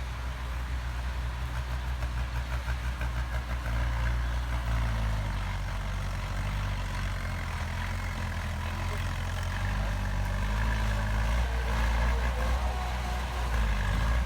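Heavy diesel engine of a construction machine running steadily, its pitch rising and the engine getting louder about four seconds in as it takes more load.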